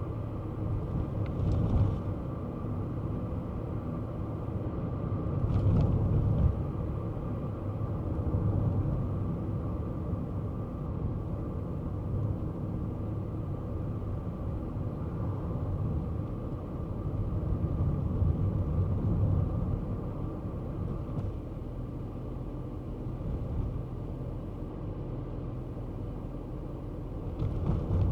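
Kei car driving, a steady low rumble of engine and road noise that swells and eases now and then, with a few brief knocks spread through.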